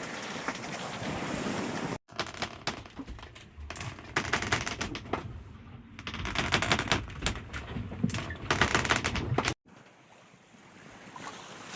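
Sailboat underway at sea: wind and water noise, with a dense, rapid crackling rattle through the middle that starts and stops abruptly, about two seconds in and near the end.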